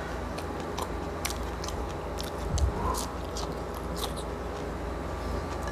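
Close-miked chewing of roast pork head (lechon), with scattered small crackling clicks from the mouth.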